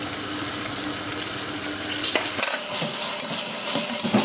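Onions and tomatoes frying in oil in a steel pot as chopped mint and coriander leaves are tipped in. From about two seconds in, the sizzling gets louder and brighter, with scraping clicks of a spoon stirring the leaves through.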